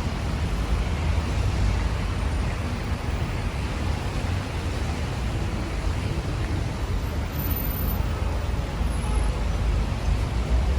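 Steady city street ambience: the even, low rumble of road traffic passing.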